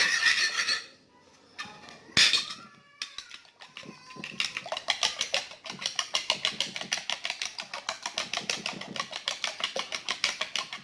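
Eggs being beaten in a bowl with a utensil: fast, even clicking strokes, about five a second, starting about four seconds in. A single loud knock comes about two seconds in.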